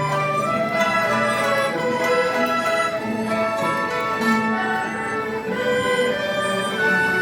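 Chinese traditional orchestra (guoyue ensemble) playing a melody of held notes over sustained low notes.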